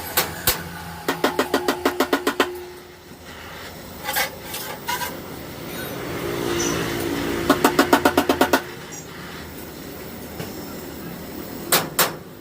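Two quick runs of about ten sharp taps each, roughly eight a second, with a few single knocks near the start and near the end, over a low steady hum.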